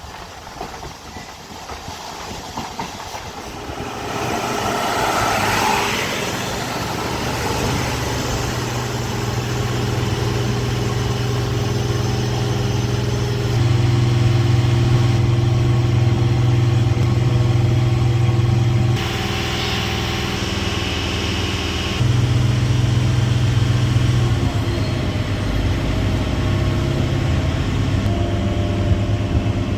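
MEMU electric train running, with a steady motor hum that shifts in pitch in steps several times. There is a swell of rushing noise about five seconds in, and the sound grows louder over the first few seconds.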